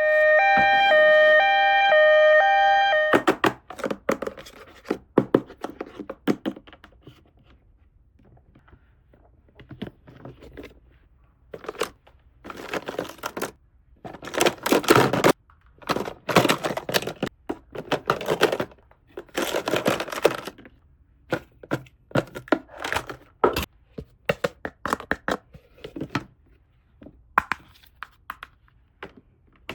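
Toy packaging being opened and plastic toy pieces handled: tearing and crinkling of packaging in bursts, with scattered clicks and knocks. It opens with a steady electronic tone lasting about three seconds.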